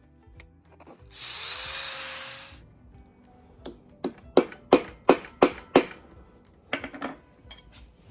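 A power drill runs briefly, its pitch rising as it spins up, then a quick series of about six sharp metallic taps follows, with a few more taps near the end. Background music plays throughout.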